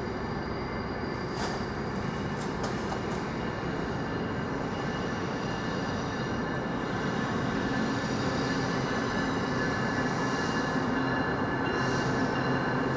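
Train moving along the tracks, its rumble slowly getting louder, with steel wheels squealing in several steady high tones. A few sharp clicks come about one and a half to three seconds in.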